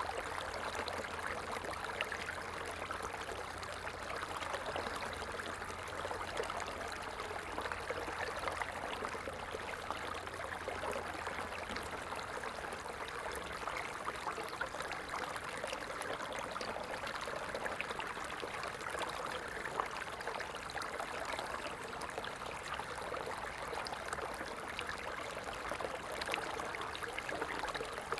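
Stream water running steadily, an unbroken babble and rush of flowing water.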